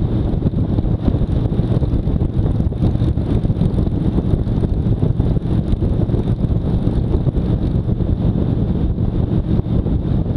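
Motorcycle under way: steady engine and road noise with heavy wind buffeting on the microphone.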